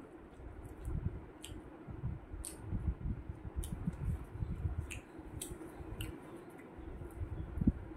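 Close-miked chewing of fried flatbread and curry eaten by hand: irregular soft chewing with scattered sharp mouth clicks and lip smacks.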